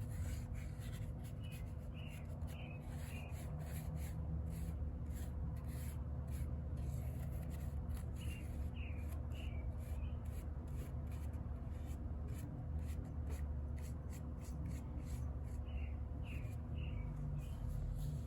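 Dry rubbing and scraping strokes on wood, many short scratches in quick succession, over a steady low hum.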